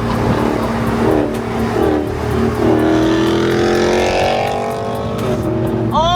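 Dodge Challenger Scat Pack's 392 HEMI V8, straight-piped with resonators and mufflers deleted, running loud under hard acceleration: the exhaust note climbs in pitch for about two seconds midway through, then drops back.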